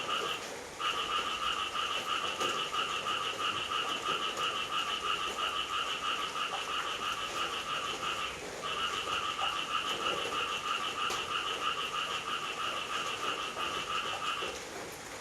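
A frog's long, rapidly pulsing trill, repeated in long runs of several seconds. It breaks off briefly within the first second and again about eight seconds in, and stops near the end.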